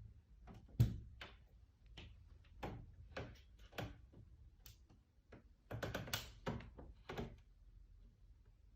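Faint, irregular taps and knocks, the loudest a single thump about a second in and a quick run of them near the end.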